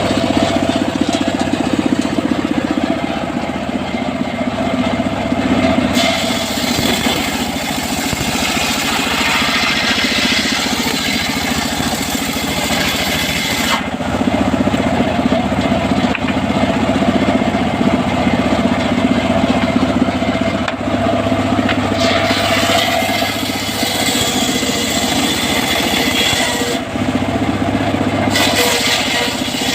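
Engine-driven home-built circular sawmill running steadily, with the saw blade's hissing cutting noise swelling twice as it rips through teak timber.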